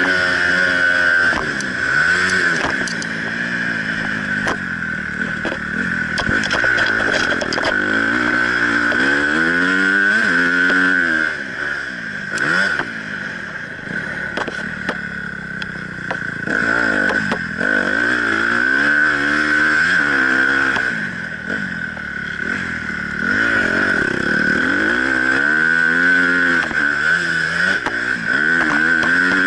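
Honda CRF250 motocross bike's single-cylinder four-stroke engine heard from on board while being ridden, revving up and dropping back over and over through acceleration and gear changes, with a quieter stretch around the middle. A steady high whine sits under it throughout.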